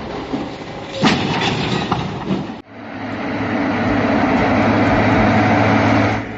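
Heavy vehicle running with a loud, steady rumble, in two pieces: a sharp burst about a second in, a sudden break about two and a half seconds in, then a steadier rumble with a low hum that builds and stops near the end.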